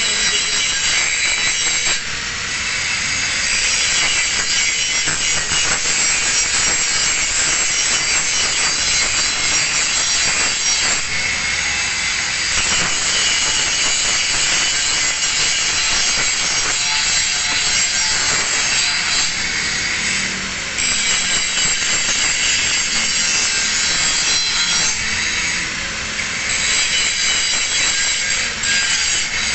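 Angle grinder grinding a single bevel on a plate edge for welding: a steady, loud grinding hiss, with brief dips a few times where the disc eases off the work.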